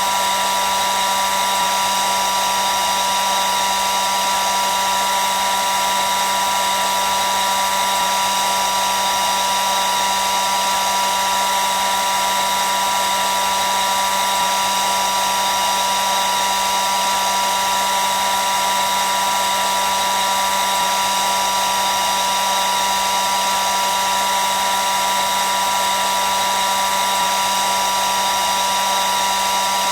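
Hair dryer running steadily: an even rushing of air with a constant motor whine and no change in speed.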